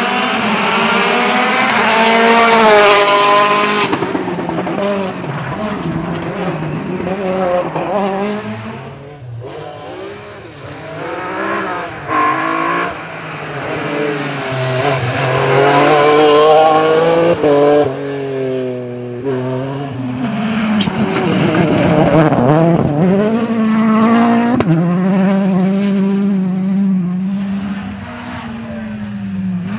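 Rally cars at full effort on a special stage, engines revving hard and dropping back through gear changes as they pass, one car after another. The loudest passes come about three seconds in and about halfway through.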